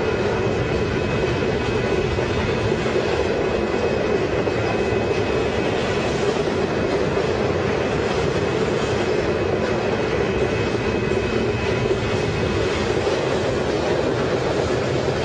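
Long freight train rolling past, a steady rumble of wheels on rail with a faint steady high tone above it.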